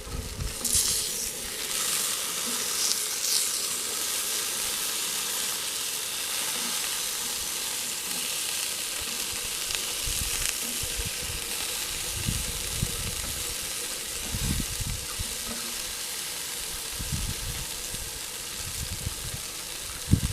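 Steak and chicken sizzling on a hot charcoal grill: a steady hiss, a little louder in the first few seconds, with a few low thumps.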